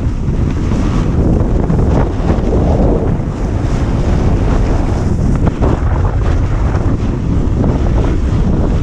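Loud, steady wind rushing and buffeting over a GoPro action camera's microphone during a snowboard descent, mixed with the hiss of the board sliding on snow.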